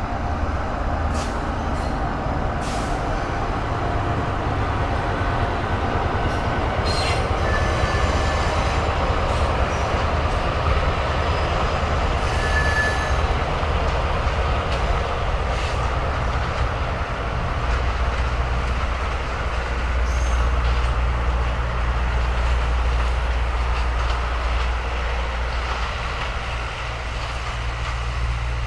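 EMD GP38-2 diesel locomotive, a 16-cylinder two-stroke, running as it approaches and passes, then passenger cars rolling by with wheels clicking over the rails. Two brief high wheel squeals come in the middle.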